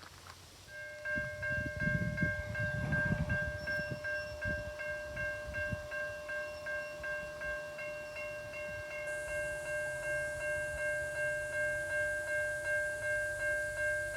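Railway level-crossing warning bell starting up and ringing in an even, repeating pattern about twice a second. A low irregular rumble sounds under it for the first few seconds.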